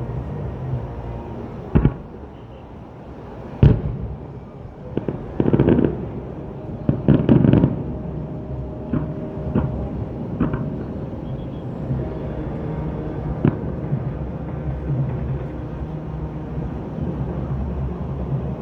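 Aerial fireworks bursting: two sharp single bangs, then rapid clusters of bursts around five to eight seconds in, then scattered lighter pops, over a steady background rumble.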